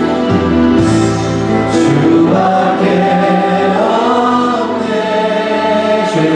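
Church congregation singing a slow Korean worship song together with accompaniment, the voices holding long notes and rising in pitch partway through.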